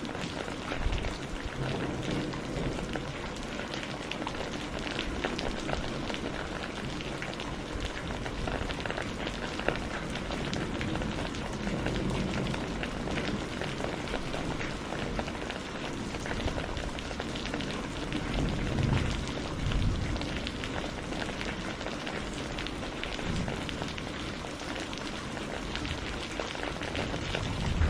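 Steady rain with a dense patter of drops. Low rumbles of thunder swell up a few times, the strongest a little past the middle and at the very end.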